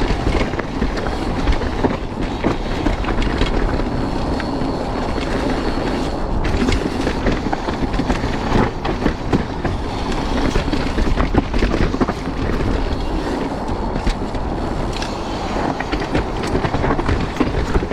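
Mountain bike riding down a rough dirt trail: tyres rumbling over the ground and the bike rattling, with a constant stream of clicks and knocks from the chain and frame over bumps.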